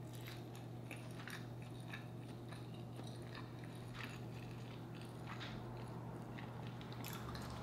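A person chewing a mouthful of chicken wing close to the microphone: scattered soft wet mouth clicks and smacks, over a low steady hum.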